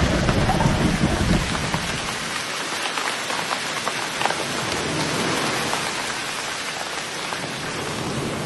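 Heavy rain falling hard, many individual drops clicking on a surface, with a low rumble in the first second and a half.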